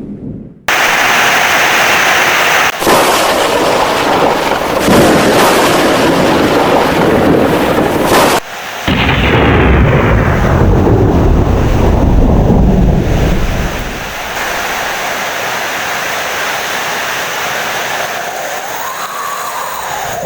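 Heavy rain with thunder rumbling, in spliced stretches that cut in and out abruptly. The thunder dies away about fourteen seconds in, leaving steady rain.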